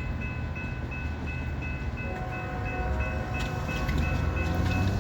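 A grade-crossing bell rings steadily with a fast, even ding. A GE ES44AC diesel-electric locomotive approaches, its low engine rumble growing louder. About two seconds in, the locomotive's multi-note horn chord comes in faintly at a distance.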